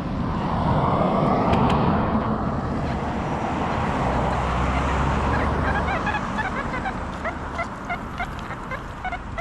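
A broad rushing noise swells and fades twice. From about six seconds in, geese start honking: a run of short calls, several a second.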